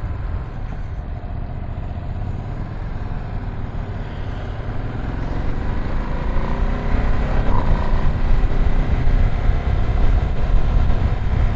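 Ducati Streetfighter V2 S L-twin engine running on the move under heavy wind rumble. About five seconds in it gets louder and rises in pitch as the bike accelerates.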